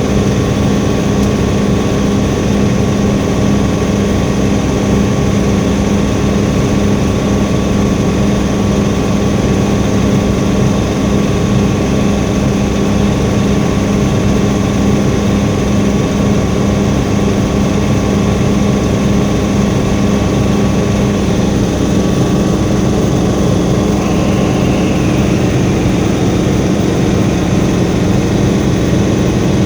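Helicopter in flight: the engine and rotor make a loud, steady drone with a strong low hum and a thin, higher steady whine.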